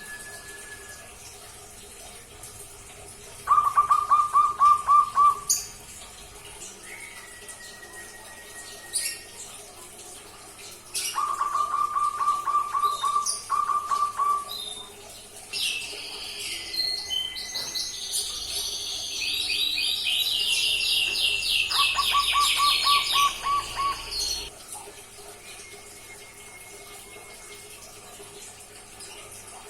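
Zebra dove chick practising its call: three short bursts of rapid, trilled cooing notes, at the start, in the middle and near the end. Higher, faster chirping from another bird runs through the middle part, alongside a few faint thin whistled tones.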